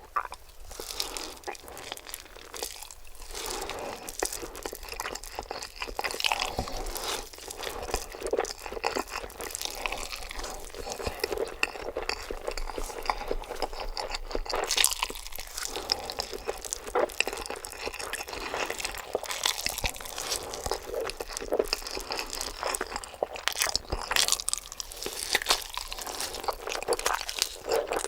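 Close-miked eating: continuous chewing and crunching with many small wet clicks and crackles.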